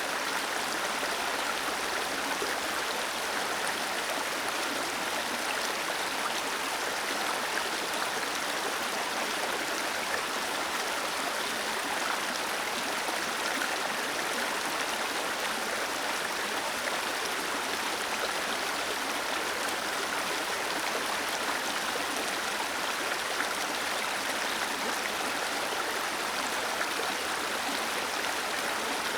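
Small waterfall splashing steadily, an even rush of falling water with no breaks.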